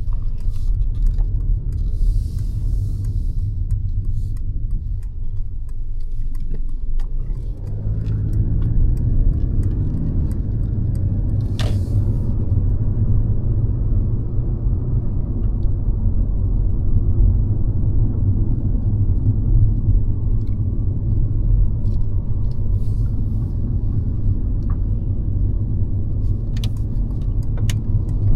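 Mercedes-Benz C-Class (W206) being driven: a steady low rumble of engine and road, growing fuller about a quarter of the way in and holding there, with a few sharp clicks.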